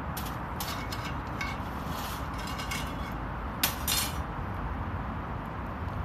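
Light metal camping gear clinking and rattling in several short bursts, with a brief ringing, the loudest clank about three and a half seconds in, over a steady low background rumble.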